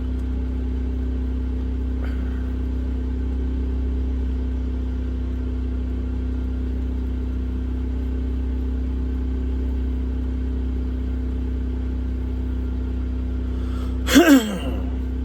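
Generator running with a steady low hum. About 14 seconds in, a brief sound with a quickly falling pitch cuts across it.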